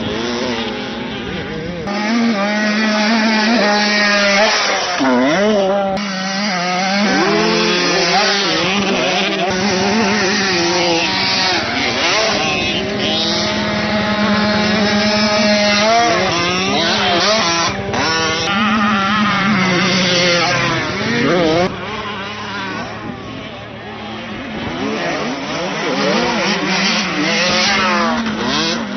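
Several off-road motocross bikes riding the track, their engines revving up and dropping back again and again as they accelerate, shift and pass one after another.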